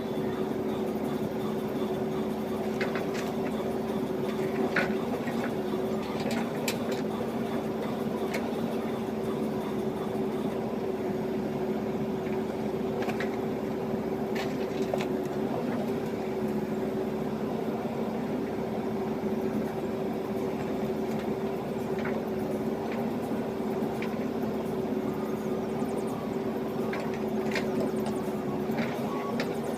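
Diesel engine of a JCB backhoe loader running at a steady speed, with scattered short sharp clicks and knocks over it.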